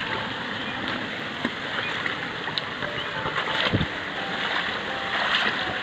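Steady rush of flowing river water, with one low thump a little under four seconds in.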